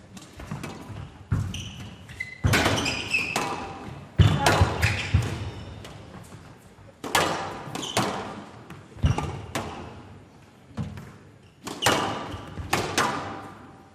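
Squash ball struck by rackets and hitting the court walls during a rally, sharp cracks about once a second, each ringing on in the hall.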